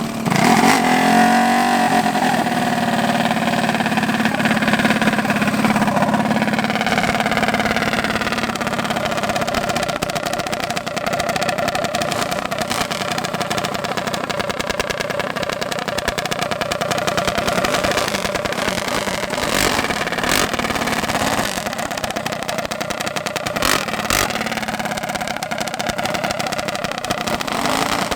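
Mini bike engine revving up and then running hard at high revs for a long stretch, with its pitch wavering a little.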